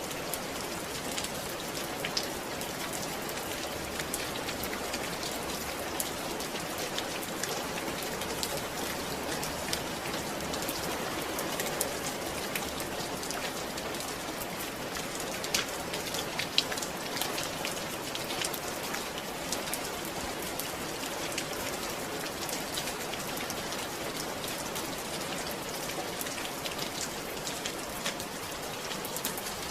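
Steady rain falling, with many separate drops ticking on a surface; two louder drops stand out about midway.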